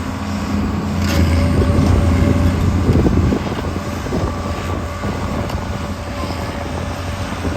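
Case 1080B excavator's diesel engine running steadily with a deep hum. It eases slightly after about three seconds, and there is a short click about a second in.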